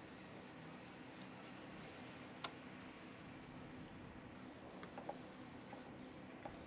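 Faint hiss of an aerosol can of Gunk heavy duty gel engine degreaser spraying, stopping and starting in short pauses, with a light click about two and a half seconds in.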